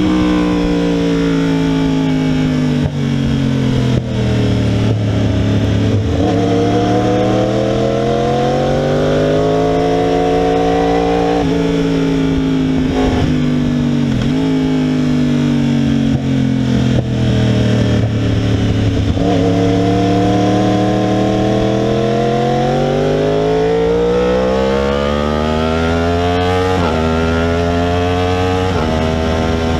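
2016 Yamaha R1's crossplane inline-four with a cat-delete exhaust, heard from the rider's seat at track speed. The note drops as the bike slows for corners, then climbs in long sweeps under hard acceleration. Sudden breaks in the note mark gear changes.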